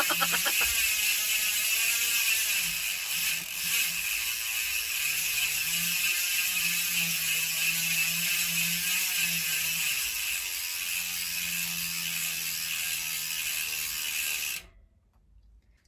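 DT Swiss rear hub's star-ratchet freehub buzzing as the wheel freewheels: a dense, steady, high-pitched ratchet buzz that cuts off suddenly near the end.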